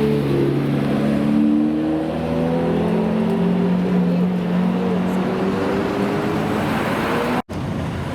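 Several supercar engines running together, their pitches slowly rising and falling as the cars accelerate and pass. The sound cuts out abruptly for an instant near the end.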